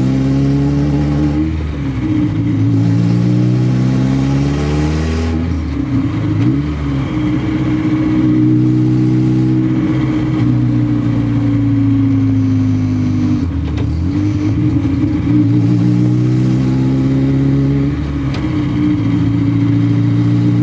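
Honda K24 2.4-litre inline-four in a Toyota MR2 Spyder pulling under acceleration, heard from inside the cabin. Its pitch climbs, then drops back at each gear change, several times over. The engine is running with a bare throttle body, without an intake pipe or air filter.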